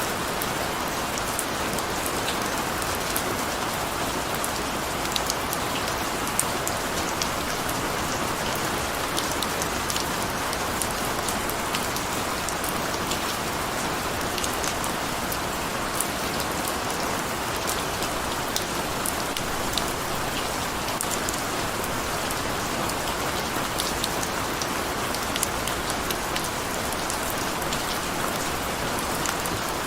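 Steady rain: a constant even hiss with many small raindrop ticks scattered through it.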